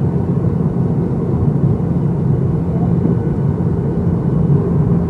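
Steady, low rumble of a Boeing 737-800's engines and airflow heard inside the passenger cabin.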